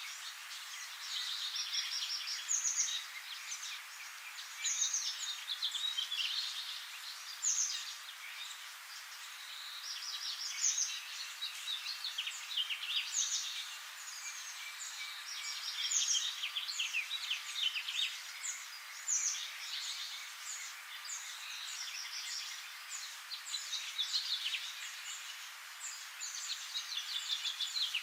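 Small birds chirping and twittering continuously, with many overlapping short, high chirps and trills coming every second or so.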